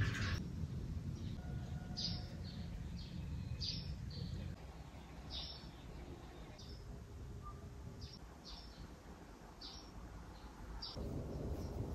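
Small birds chirping, short high tweets coming every second or so, over a low background noise that eases after about four seconds.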